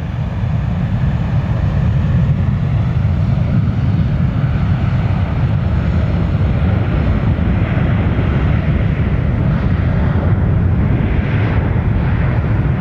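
Jet airliner engine noise: a loud, steady low rumble with a rushing hiss above it, building over the first second.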